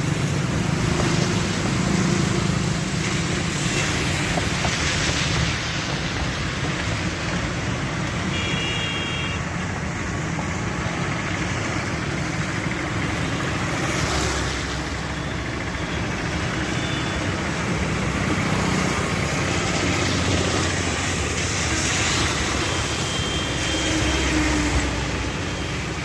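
Steady outdoor din with a low engine hum, and a few brief high tones about a third of the way in and again near the end.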